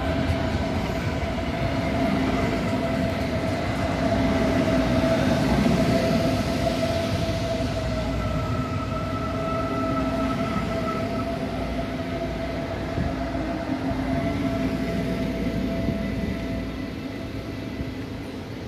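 Long DB Class 423 S-Bahn electric multiple unit passing close by: steady rumble of wheels on rail with a steady whine, fading over the last couple of seconds as the train moves off.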